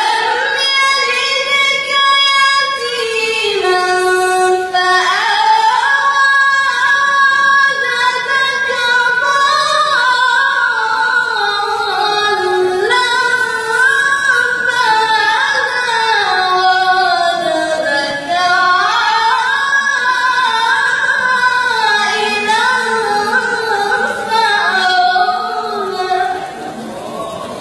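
A young woman's high voice reciting the Quran in the melodic, drawn-out mujawwad style: long held phrases with ornamented rises and falls in pitch, with short breaks for breath, trailing off near the end.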